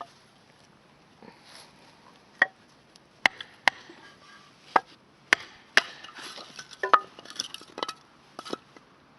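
Firewood knocking: a series of about nine sharp wooden knocks and clacks at uneven intervals, the loudest about seven seconds in.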